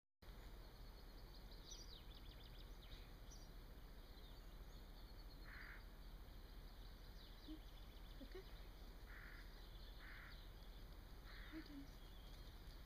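Near silence: faint outdoor quiet with distant birds chirping now and then and a few short, soft noises.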